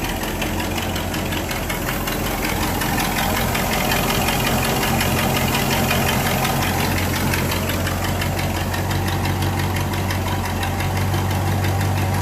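1959 Cadillac DeVille's 6.4-litre V8 idling steadily while the freshly refilled cooling system is burped of trapped air. The low hum grows a little louder about five seconds in.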